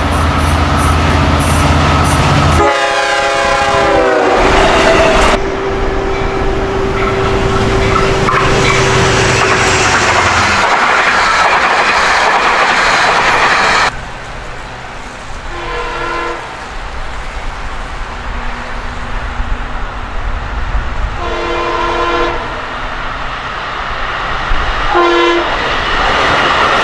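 LIRR DM30AC diesel locomotives and an eight-car C3 bilevel train passing close by, with the engine running, wheels clacking over the rail joints and the horn falling in pitch as the lead locomotive goes by. The sound drops off suddenly about halfway through once the train has passed, and the horn is then heard further off in three blasts, one of them longer.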